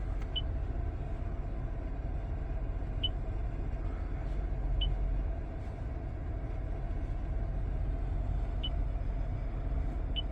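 2022 Toyota Tundra's engine idling, a steady low rumble heard inside the cab, with five short, high beeps at irregular intervals.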